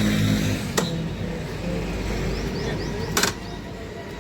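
An engine running under a low rumble, its steady hum fading soon after the start, with a sharp click about a second in and a louder crack about three seconds in.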